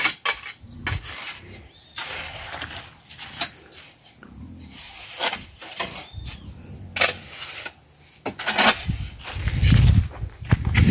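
Leafy guava branches rustling and crackling as they are pulled at by hand to reach a fruit, in scattered sharp snaps and rustles. Near the end a louder low rumble comes in.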